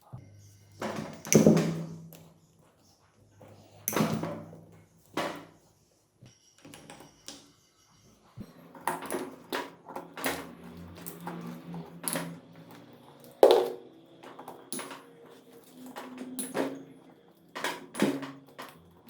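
Workshop clatter of metal engine parts and hand tools being handled: a string of separate sharp knocks and clicks, the loudest about a second and a half in and again near thirteen seconds, with a faint steady low hum between them.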